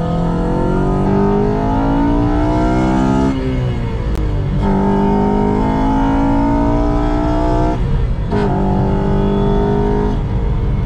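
Honda Civic Si's four-cylinder engine accelerating hard under load, heard from inside the cabin. The revs climb in three pulls, with a brief drop at each of two upshifts, about three and a half and about eight seconds in.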